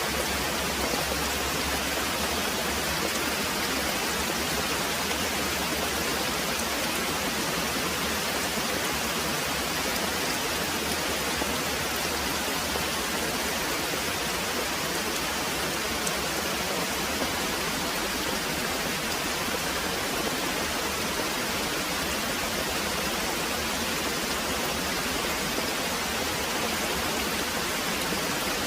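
Very heavy rain pouring steadily, a dense, even hiss with no breaks or changes.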